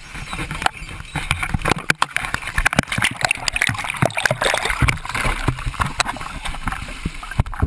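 Seawater sloshing and splashing inside a ditched plane's flooded cabin, mixed with irregular knocks and bumps.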